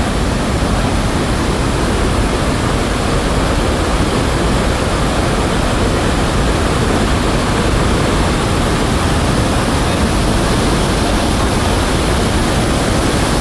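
Iguazu Falls close up: a loud, steady rush of a huge volume of falling water.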